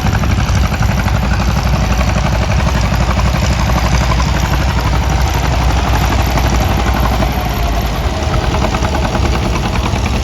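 Antique farm tractor engines running steadily under load while pulling plows through stubble, with a fast, even firing beat.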